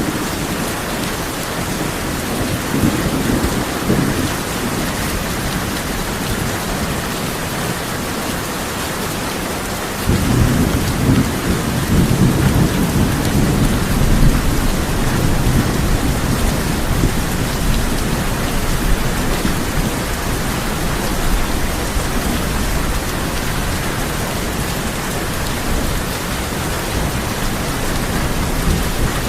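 Steady heavy rain on a tin roof, with thunder rumbling. About a third of the way in, a louder, deeper rumble of thunder sets in and rolls on.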